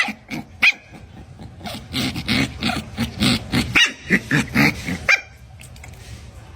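A dog barking in a quick run of short barks, starting a second or two in and stopping suddenly about five seconds in.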